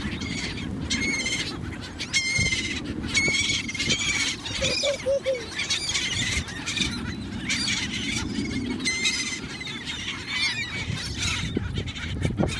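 A flock of birds calling over and over, short high wavering calls coming about every second.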